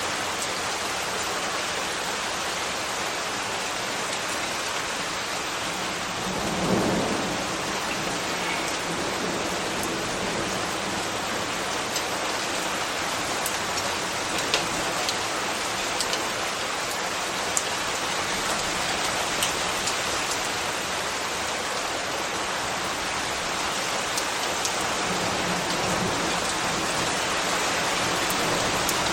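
Steady rain falling, with scattered sharp drip ticks. About seven seconds in, a brief low swell rises and fades.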